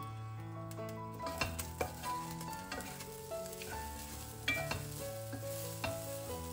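Chicken gizzards sizzling in a pot while a wooden spatula stirs them, knocking sharply against the pot a few times, over soft piano music.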